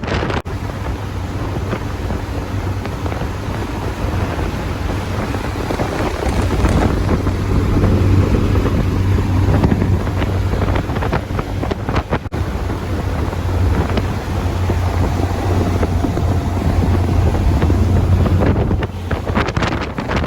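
Morgan Plus 4 sports car driving at speed, a steady low engine drone under heavy wind buffeting on the microphone, a little louder from about six seconds in.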